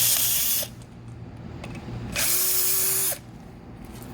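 Power drill running in two short bursts, each about a second long, backing screws out of a wheelchair's back.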